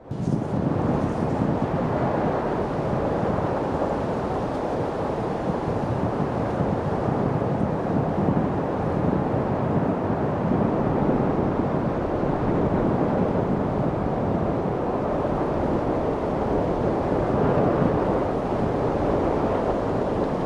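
Steady wind blowing, an even rushing noise without distinct gusts or pauses, briefly cutting out for an instant right at the start.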